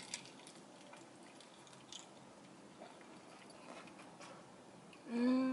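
Quiet eating: a bite into a lettuce-wrapped low-carb chicken burger, then faint chewing with a few soft clicks. Near the end comes a short hummed "mm".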